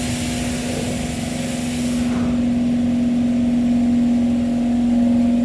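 Steady droning tone from an SMRT C151 train, heard inside the car, the unexplained noise of the ride. A hiss over it cuts off about two seconds in.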